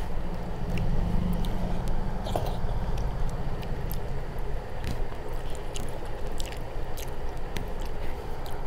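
Close-miked chewing and wet mouth sounds with scattered small clicks as rice mixed with sour dal is eaten by hand, over a steady low hum.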